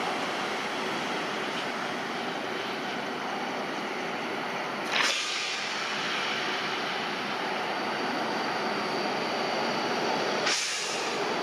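Steady running noise of an approaching Indian Railways WAG-5 electric locomotive hauling passenger coaches. Twice, about five seconds in and again near the end, a brief sharp sound sweeps down from high to low.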